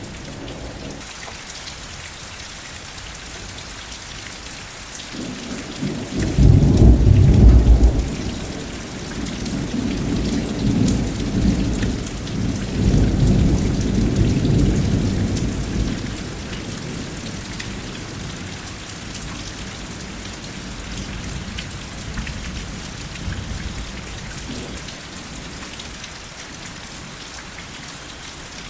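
Steady rain falling during a thunderstorm. A roll of thunder starts about five seconds in and is loudest a couple of seconds later. It rumbles on in swells for about ten seconds, then fades, leaving the rain.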